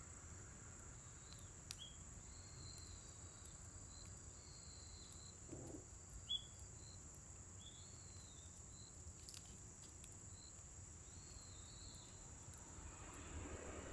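Faint outdoor night ambience: insects keep up a steady high-pitched trill, with scattered short chirps. A few faint sharp pops come from the burning scrap-wood fire.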